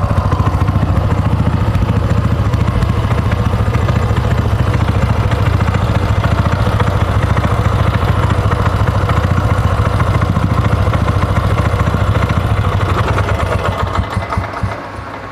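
Robin EY35B single-cylinder air-cooled gasoline engine running steadily at idle, then shut off near the end, its last few slowing beats dying away as it coasts to a stop.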